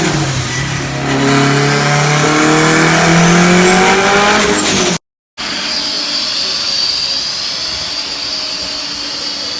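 Turbocharged Honda K20 four-cylinder revving under load on a dyno pull, its pitch climbing steadily for about four seconds. After an abrupt cut, a steady high whine with a rushing hiss takes over.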